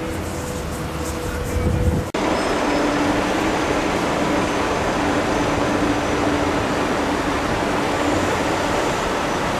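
Steady motor-vehicle traffic noise, an engine hum with a constant low tone under a hiss of road noise. About two seconds in the sound cuts abruptly and comes back louder and hissier. No siren wail is heard.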